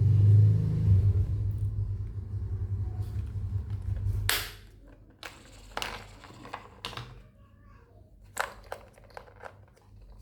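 Small electric motor and wheels of a battery-powered Spider-Man skateboard toy running with a steady low hum, stopping about four seconds in. Scattered plastic clicks and taps follow as the toy is handled.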